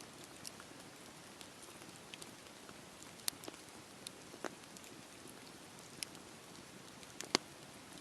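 Wood campfire burning with a low steady hiss and scattered sharp crackles and pops, the loudest about three seconds in and near the end.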